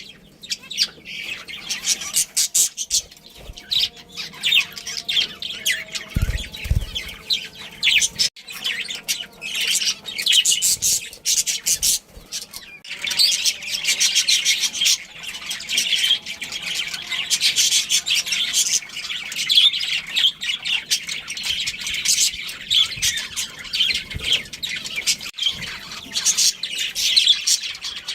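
Budgerigars chirping and chattering continuously in rapid, high chirps mixed with squawks, with a brief low thud about six seconds in.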